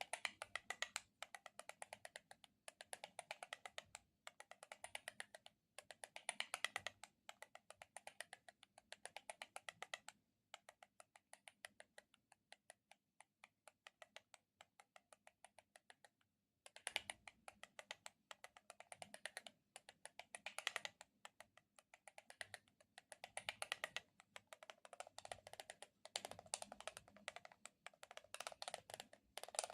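Close-miked ASMR handling sounds: rapid runs of soft clicks and crackles in bursts of a second or two, with a sparser, fainter stretch in the middle.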